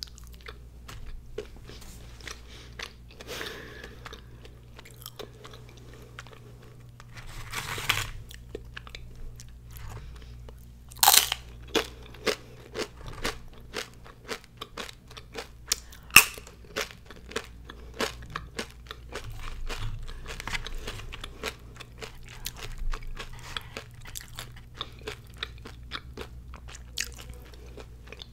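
A person biting and chewing crisp fried tortilla chips: a steady run of close crunches, with a couple of louder bites.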